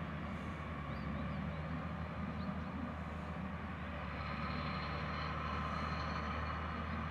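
Heavy diesel machinery running steadily at harvest, a low engine drone with a high whine coming in about four seconds in.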